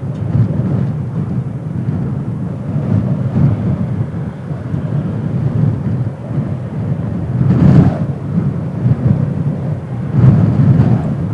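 Jet airliner engines giving a loud, low, uneven rumble that swells and fades, with surges about two-thirds of the way through and near the end.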